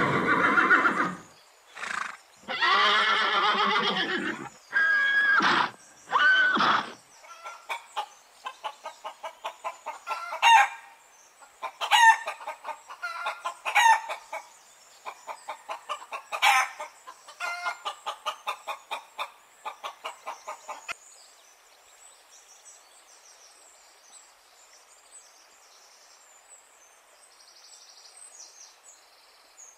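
A horse whinnying at the start, with several more loud calls over the next few seconds, then chickens clucking in quick runs of short notes with a few louder squawks for about fourteen seconds. The last several seconds hold only faint background noise.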